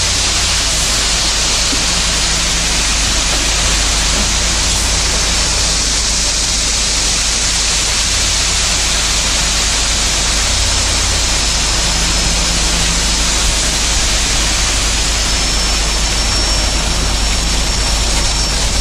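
Steady machinery noise: an engine running at a constant pitch under a strong, even hiss, with a faint thin whistle in the later part.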